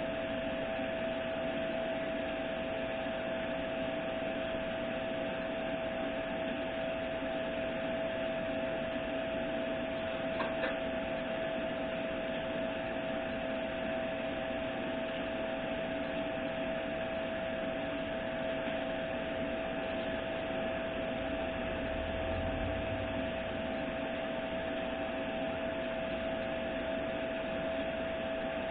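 Steady fan-like whir and hiss with a constant hum tone, unchanging throughout, with one faint click about ten seconds in.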